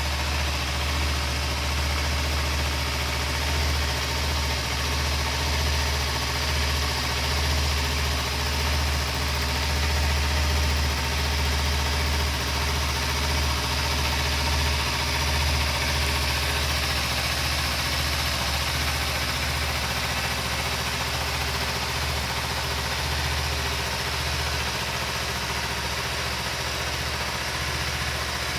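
Kawasaki Ninja 250 (EX250L) parallel-twin engine idling steadily.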